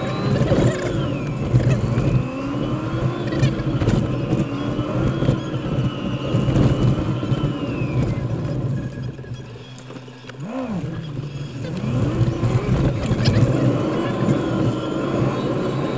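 Car engine and road noise heard from inside the cabin, the engine's pitch rising and falling again and again as the car speeds up and eases off. It drops quieter for a moment about two thirds of the way through.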